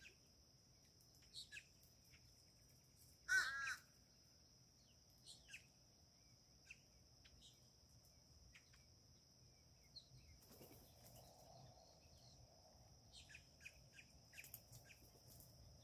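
A bird gives one loud, short harsh call a little over three seconds in. Faint scattered chirps and a steady thin high whine sit under it.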